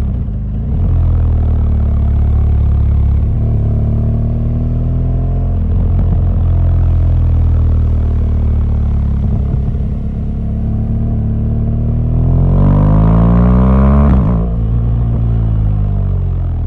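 BMW R1200GS boxer-twin engine running under way, heard from the bike. About twelve seconds in the revs climb sharply for some two seconds as it accelerates, then fall away just after fourteen seconds.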